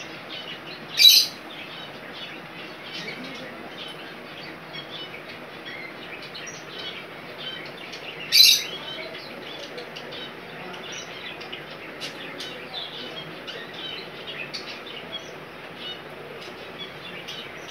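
Small birds chirping on and off, with two loud, brief, sharp sounds, one about a second in and one about eight and a half seconds in.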